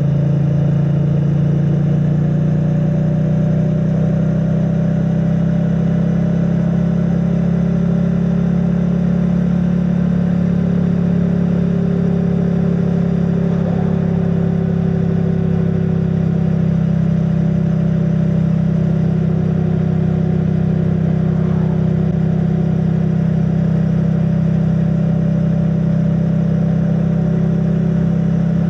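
Triumph Bonneville T100's 900 cc parallel-twin engine running steadily through its stock exhaust, its pitch holding nearly level. It is heard muffled from a microphone in the rider's backpack.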